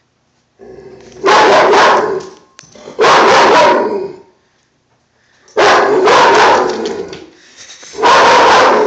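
A dog barking at a poster-board figure of a soldier, in four loud volleys of several quick barks each, a second or two apart.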